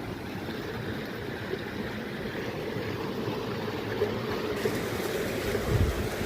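Steady rushing of a mountain stream, with a brief low rumble near the end.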